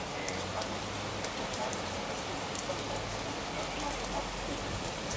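Storm rain falling steadily, with sharp ticks of drops striking close by.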